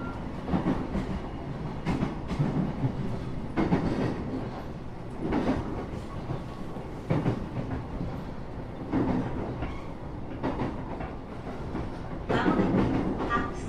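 Running noise inside a JR East local train car: a steady rumble with repeated clacks of the wheels over rail joints, roughly every one and a half to two seconds, getting louder near the end.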